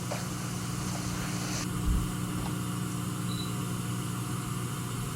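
Steady low mechanical hum under a faint hiss, with a soft thump about two seconds in.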